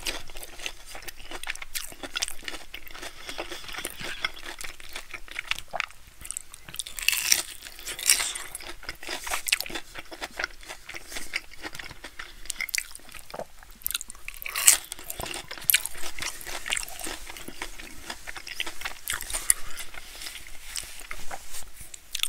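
Close-miked chewing of a breaded fried pickle: irregular wet crunching and crackling of the fried coating, with sharper crunches about seven seconds in and about fifteen seconds in.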